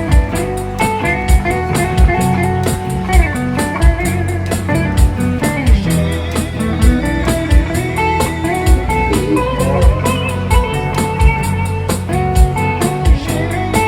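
Live band playing an instrumental passage: guitar carrying the melody over a steady drum beat.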